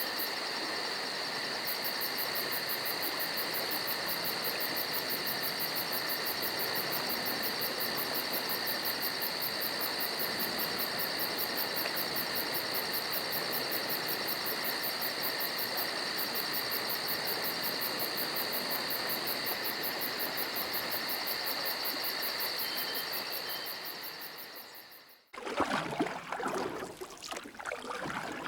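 Steady chorus of insects, such as crickets, trilling with a fast, even pulse; it fades out near the end. It gives way to water splashing and trickling.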